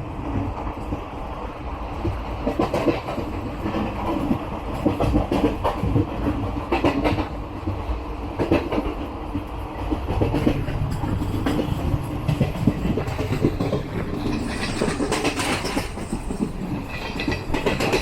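Passenger train running on the rails: a steady rumble with irregular clattering and knocks from the wheels over rail joints.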